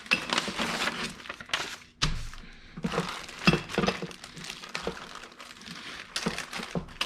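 Parts of a plotter's media basket kit being unpacked and handled: irregular clicks, knocks and clatter of small hardware, with rustling of packaging.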